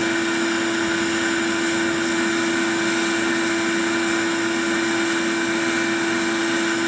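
Homemade bee vacuum's motor running steadily with a strong, even hum as it sucks swarming honeybees off the branches.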